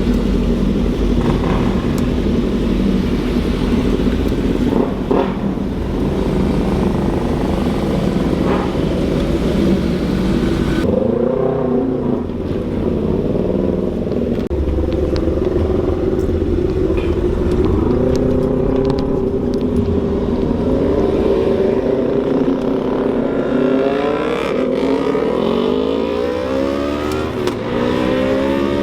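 Vehicle engines running steadily. After an abrupt change about eleven seconds in, engines rev repeatedly, their pitch rising and falling.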